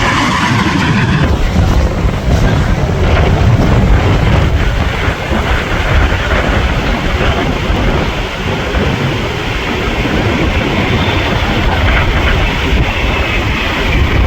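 Wind buffeting the microphone: a loud, steady rushing noise, heaviest in the low end, with no engine tone in it.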